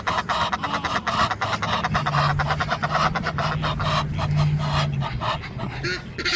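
A flock of geese and ducks chattering: a dense run of quick clicks and short low calls, with a low steady hum through the middle few seconds. Goose honks begin right at the end.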